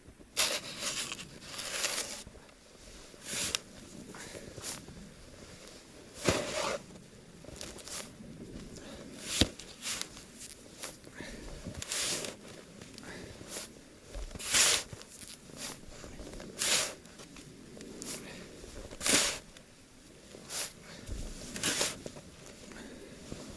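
Snow shovel scooping and scraping packed snow in short strokes that come every second or two at an uneven pace.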